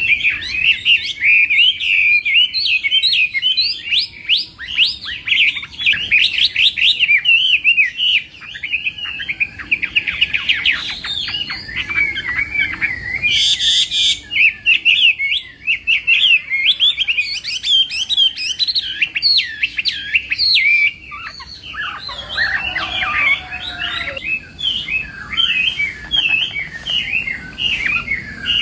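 Chinese hwamei singing a long, continuous song of rapid, varied whistles and trills, with a brief rasping noise about halfway through.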